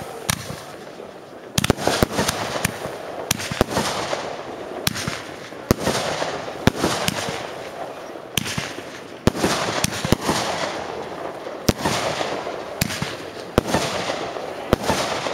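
Aerial fireworks display: shells launching and bursting in quick succession, with sharp bangs about once or twice a second and a crackling hiss between them.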